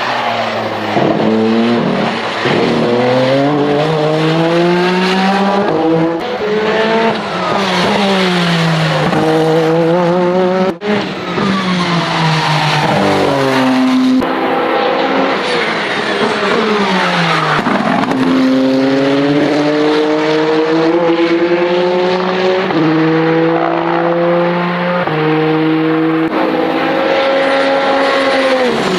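Peugeot 9X8 EVO hypercar's twin-turbo V6 at race pace. Its note climbs under acceleration and drops in steps at each gearshift, over and over, with longer falling runs where it slows for corners.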